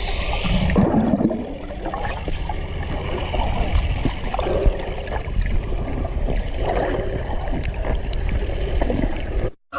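Water sloshing and gurgling over a steady low rumble.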